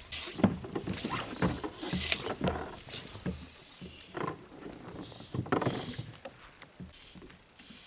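Irregular knocks, scrapes and small splashes on a kayak's hull as someone shifts and handles gear in the boat, picked up through the hull.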